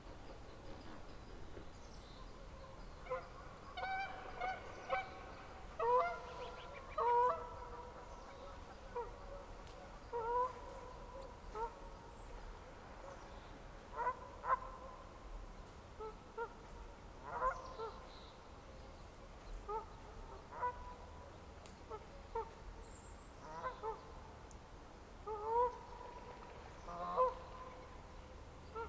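Birds calling over and over: short, pitched calls at irregular intervals, sometimes several in quick succession, over a faint steady background.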